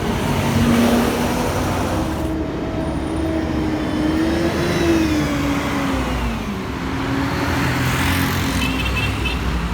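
Heavy diesel vehicles in city traffic, most likely buses: one engine's pitch climbs steadily as it accelerates, then drops as it goes by about six seconds in, and another engine carries on under the traffic noise. A short run of rapid high beeps comes near the end.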